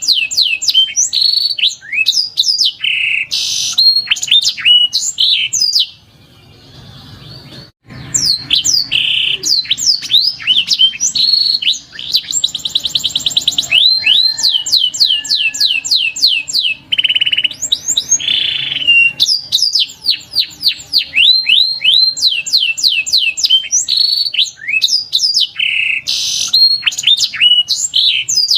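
Canary song: rapid strings of high whistled notes and fast trills, with a brief quieter lull about six seconds in.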